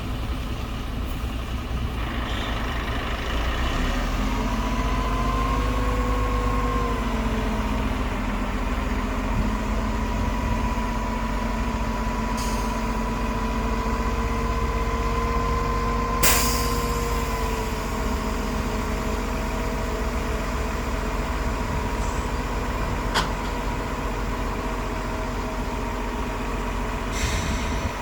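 Heavy diesel earthmoving machinery running with a steady low drone and a whining tone that rises and holds for several seconds at a time. A short sharp hiss comes about sixteen seconds in.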